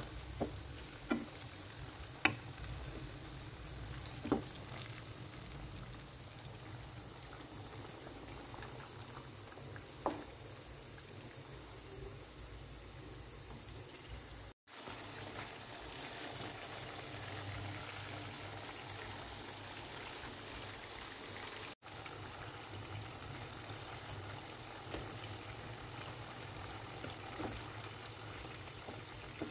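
Beef pieces frying in hot oil, a steady sizzle, with a few sharp knocks of a wooden spatula against the pan in the first seconds; later a pan of beef rendang simmering as it is stirred.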